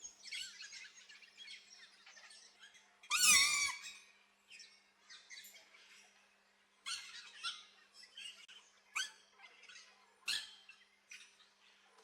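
Aviary birds chirping in short, repeated calls, with one loud call whose pitch bends about three seconds in.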